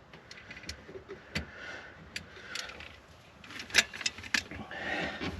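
Hand work on a car tail light: scattered light clicks and knocks with a few brief rustles, the sharpest knock a little under four seconds in.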